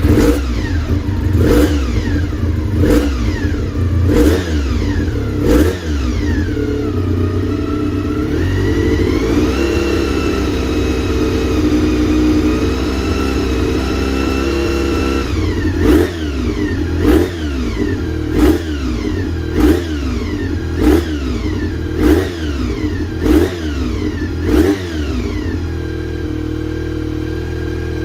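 Honda VFR400R NC30's 400 cc V4 engine through an aftermarket exhaust, revved on the stand. First come sharp throttle blips about every second and a half, then the revs are held up for several seconds. Another run of quick blips follows, about one a second, before it settles back to idle near the end.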